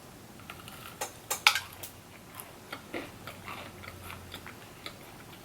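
Close-up mouth sounds of biting into and chewing fried chicken. A few sharp crunches come about a second in, loudest at about a second and a half, followed by softer, irregular chewing clicks.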